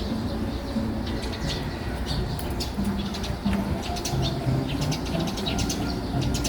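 Many small birds chirping and twittering in quick runs of short high notes, with low cooing underneath.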